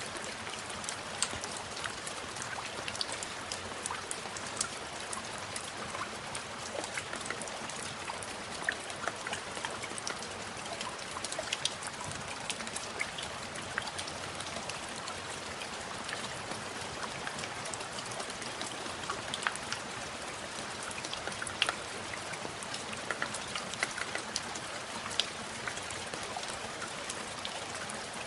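Steady rain falling, a constant hiss with many individual drops ticking sharply through it.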